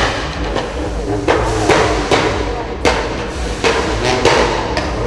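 Modified car's exhaust banging and popping over a low engine rumble, with sharp irregular cracks about every half second to a second, each trailing a short rasping note.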